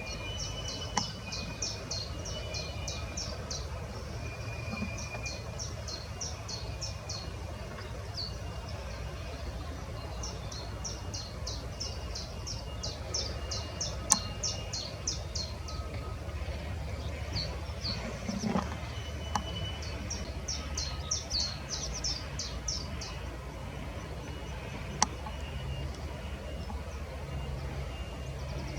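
Small birds singing: three long runs of high, evenly repeated notes, about three a second, with fainter whistled calls between, over a steady low outdoor rumble.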